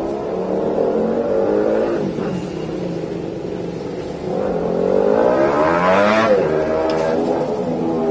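Yamaha Jupiter MX 135's single-cylinder four-stroke engine heard through an R9 Misano aftermarket exhaust fitted with its dB killer, running and revving. The pitch climbs from about four seconds in to a peak around six seconds, then drops back.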